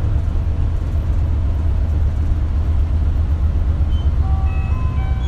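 Isuzu Erga (KL-LV280L1) city bus running, heard inside the passenger cabin as a steady, loud low rumble of engine and road noise. A few short chime-like tones sound near the end.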